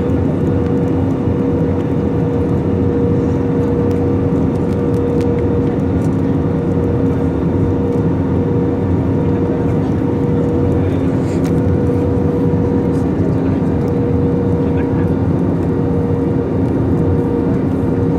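Aircraft engines droning steadily, a constant noise with an even hum that does not rise or fall.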